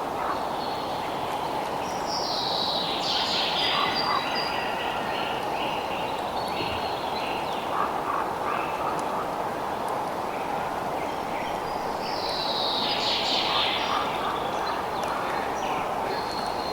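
Outdoor nature soundscape: bird calls in two clusters, each sweeping downward in pitch, about ten seconds apart, with scattered smaller chirps between them. Under them runs a steady chorus.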